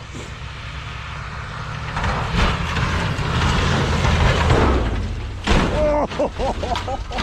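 1976 GM pickup truck driving hard on a dirt track, its engine and tyre noise building to their loudest mid-way. A sudden knock about five and a half seconds in, followed by a shouting voice.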